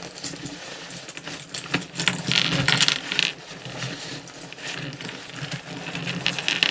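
Small sea shells clinking and rattling against each other as they are rummaged through by hand in a box, with a busier stretch of clatter about two to three seconds in.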